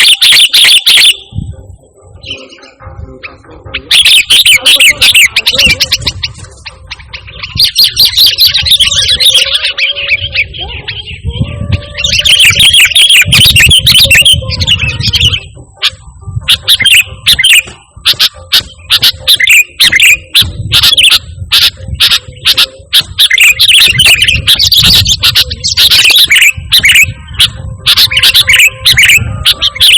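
Sooty-headed bulbul singing loudly in quick, repeated chirping phrases that come in bursts with short pauses.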